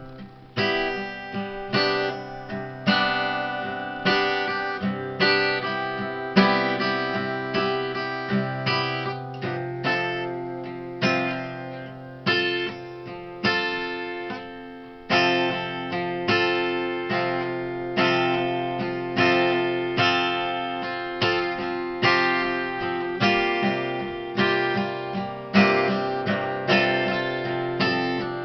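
Acoustic guitar playing an instrumental piece, with regular strummed chords ringing out over one another.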